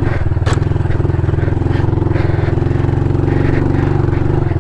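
Honda CRF110 pit bike's small single-cylinder four-stroke engine running steadily under load on a rocky climb, with a brief sharp click about half a second in.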